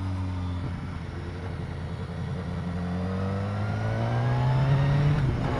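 BMW S1000R inline-four motorcycle engine under way, heard from the rider's helmet. The engine note sinks a little at first, then climbs steadily as the bike accelerates, and eases off again just before the end.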